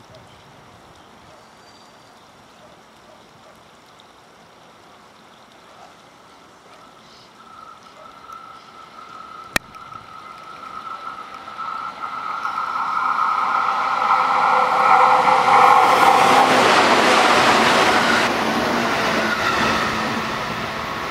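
JR 211 series electric commuter train approaching and running past close by. Its wheels on the rails build from faint to loud under a steady high hum, are loudest about three-quarters of the way through, then ease off as it goes by. A single sharp click comes near the middle.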